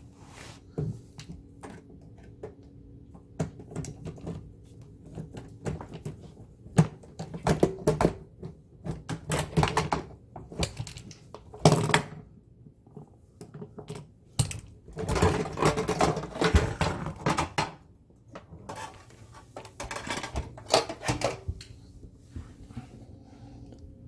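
Hands and tools working on a dishwasher's door and hinge area while it is taken apart to reach a broken door spring: irregular clicks, knocks and clattering of metal and plastic, busiest in three spells through the middle.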